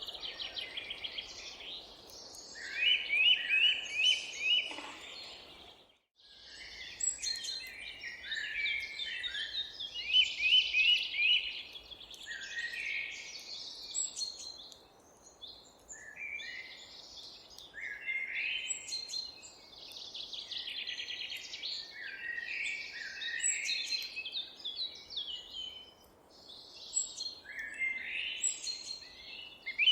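Several songbirds singing at once in a park garden, overlapping phrases and repeated trills, over a steady low background rumble. The sound cuts out briefly about six seconds in, then the birdsong resumes.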